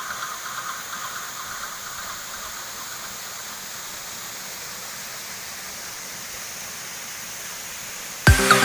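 Steady rushing of a waterfall, an even hiss of falling water, as electronic dance music fades out over the first couple of seconds; the music cuts back in loudly near the end.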